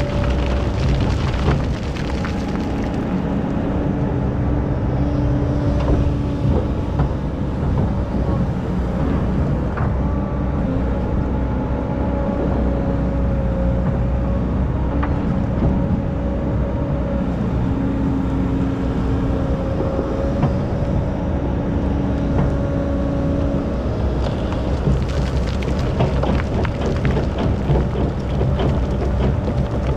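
Excavator's diesel engine running steadily under load while digging sand, with a whine that comes and goes and scattered knocks.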